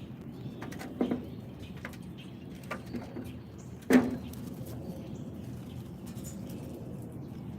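Small taps and clicks of animals moving about a backyard feeder, with two sharper knocks about a second in and, loudest, about four seconds in, over a steady low background noise.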